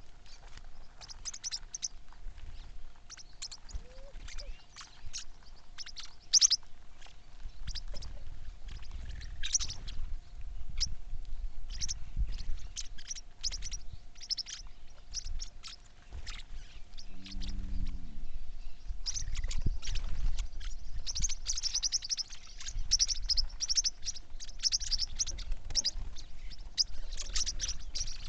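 Birds chirping: many short, high chirps, sparse at first and coming thick and fast over the second half, with a low rumble and a faint steady hum underneath.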